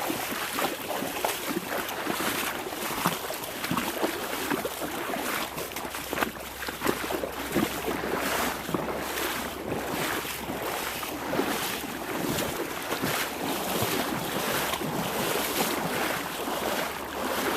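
Shallow creek water splashing and sloshing, with irregular splashes all through.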